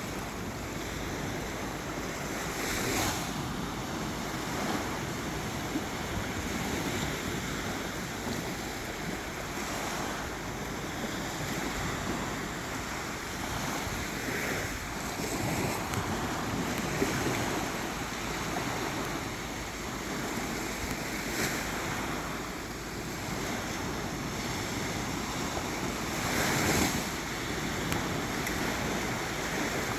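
Sea surf washing onto a beach as a steady hiss, with louder swells as a wave breaks every few seconds.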